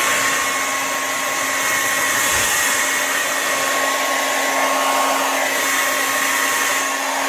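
Revlon infrared ionic hair dryer running steadily: a loud, even rush of air with a constant motor whine.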